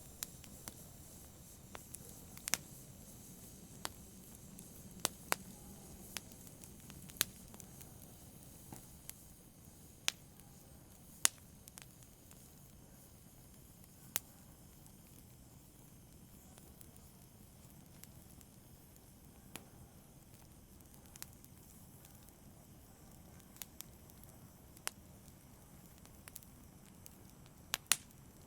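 Wood fire crackling: scattered sharp pops at irregular intervals over a low, steady rumble of burning. The rumble eases a little after the first few seconds.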